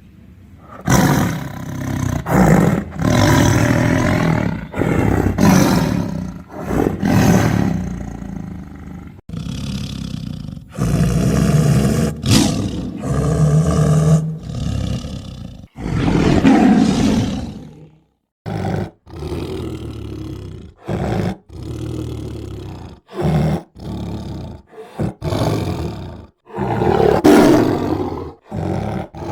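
Tiger roaring and growling over and over in long, loud bursts; about two-thirds of the way through it cuts off suddenly, and the roars that follow come as shorter, choppy bursts with brief silent gaps.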